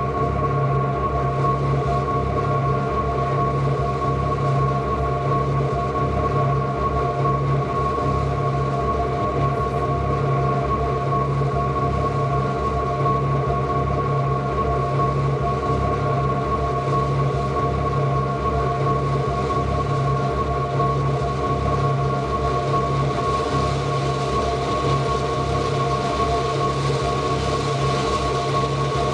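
Ambient electronic drone music: a dense, steady texture of held tones over a fluttering low rumble. A hiss grows brighter in the treble over the last few seconds.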